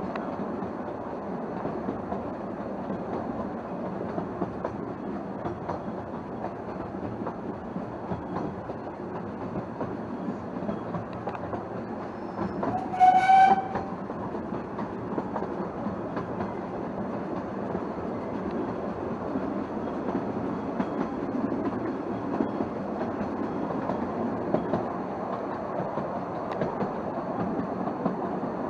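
Narrow-gauge railway carriage running along the track, a steady rumble and rattle from the wheels and rails. About halfway through, the locomotive gives one short whistle, under a second long and the loudest sound.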